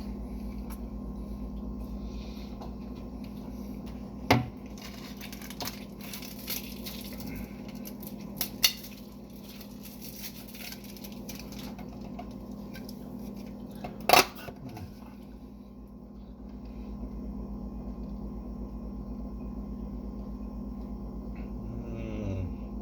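Eating utensils clinking and tapping against a dish while eating, with three sharper, louder clinks spread through, over a steady low hum.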